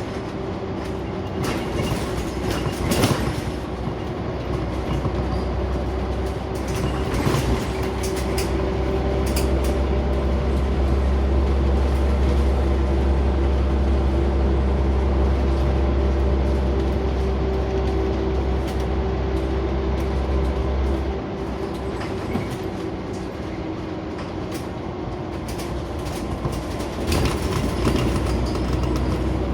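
Scania OmniCity single-deck bus heard from inside the saloon while driving: a steady deep engine and driveline drone with a humming whine, and scattered rattles and knocks from the body and fittings. The deep engine note drops away about two-thirds of the way through, as the bus comes off the throttle.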